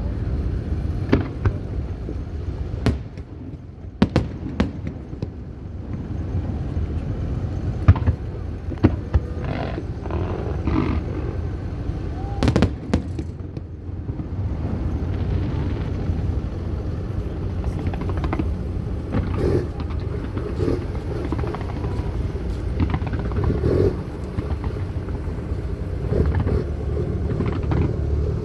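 Fireworks bursting: irregular sharp bangs and cracks over a steady low rumble.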